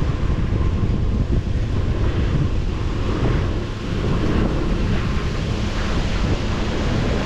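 Gusty wind buffeting the microphone in a loud, steady rumble, dipping briefly about halfway through.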